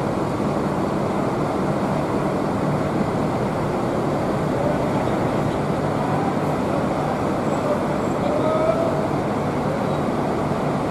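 Steady background noise of a bus terminal, a constant rumble and hiss with a low engine hum from idling buses.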